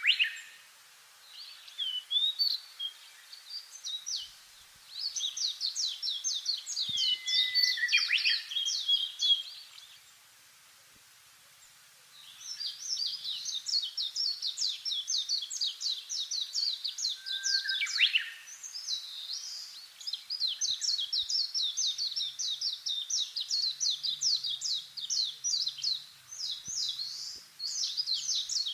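Songbirds singing: long runs of rapid, high twittering notes lasting several seconds each, with a few lower sweeping calls and a short quiet gap about ten seconds in.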